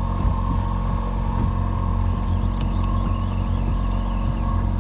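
Boat motor running steadily while trolling, an even engine drone.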